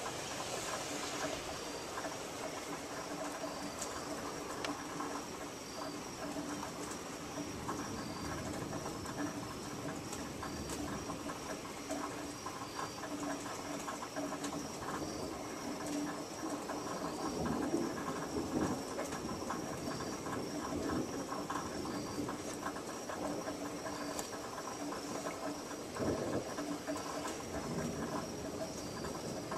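Light rain pattering and dripping after a thunderstorm, with a steady low hum and a faint high insect chirp repeating at an even pace.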